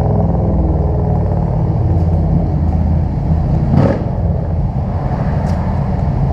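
A steady, loud low engine rumble, with a brief rushing sound just under four seconds in.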